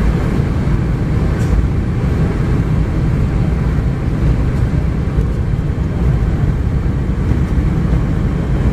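Steady cabin noise inside a Boeing 717-200: a constant low rumble from its tail-mounted Rolls-Royce BR715 engines and the rush of air along the fuselage, with no change in level.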